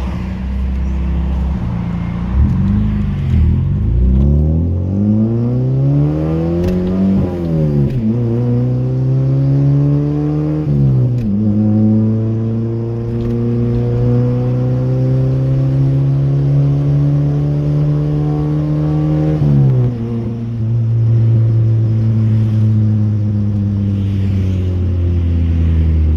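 VW Gol G2's AP four-cylinder engine through a straight-pipe exhaust with no muffler, pulling away from low revs: the pitch climbs and drops sharply at two gear changes, then holds steady at cruise, drops again about twenty seconds in and settles lower.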